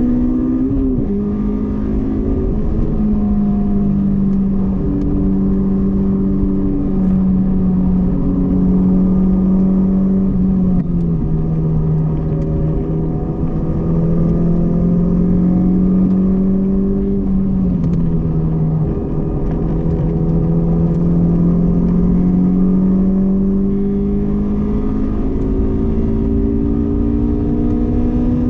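Honda S2000's inline-four engine running hard on a race track in a steady, loud drone. Its pitch steps down about a second in, near the middle and again about two-thirds of the way through, then climbs steadily near the end as the car accelerates.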